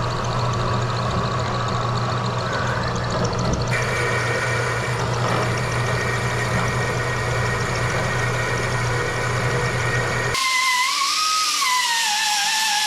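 Portable metal-cutting band saw running as it cuts through rusty truck metal, a steady motor hum with a strong low drone. About ten seconds in it cuts off abruptly and music with a gliding, theremin-like tone begins.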